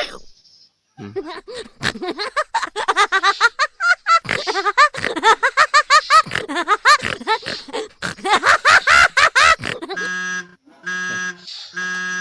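Cartoonish sound effects: a long run of quick warbling, chirpy pitched sounds, then near the end an electronic tone beeping in even pulses about once a second.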